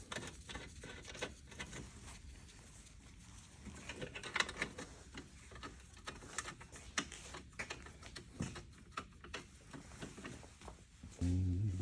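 Scattered light clicks and taps of hand tools and bolts, with the charge air cooler's mounting bolts being started by hand. A short low hum comes near the end.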